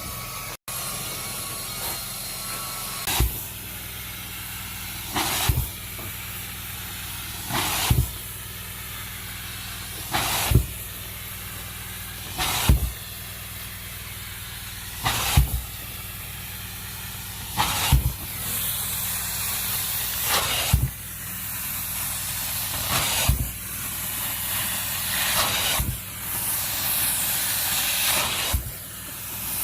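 Carpet-cleaning vacuum running steadily with a hiss and low hum, pulling soil from a heavily soiled carpet. A louder rush comes with each stroke, about every two and a half seconds.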